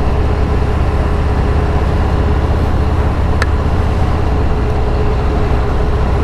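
Motorcycle at speed on the open road: the engine holds a steady drone under a heavy wind rush on the helmet microphone. There is one short tick a little past halfway.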